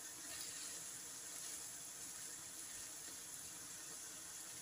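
Karela (bitter gourd) slices frying in hot oil in a pan on high flame: a faint, steady sizzle.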